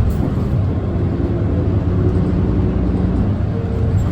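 Nissan Diesel Space Runner city bus's diesel engine and drivetrain running, heard from inside the passenger cabin. A steady higher whine comes in about three and a half seconds in.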